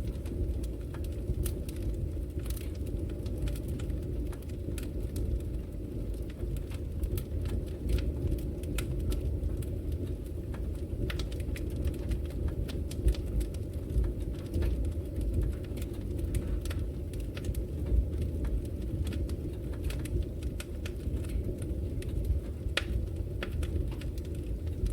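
Wood fire crackling in a fireplace: irregular sharp pops and snaps over a steady low rumble of the burning flames.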